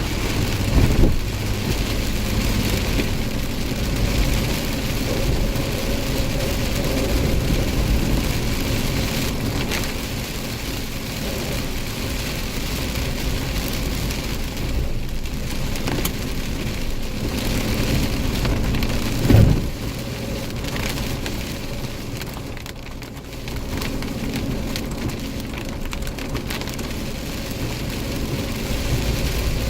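Heavy thunderstorm rain falling steadily, with a low steady hum underneath and a brief sharp thud about 19 seconds in.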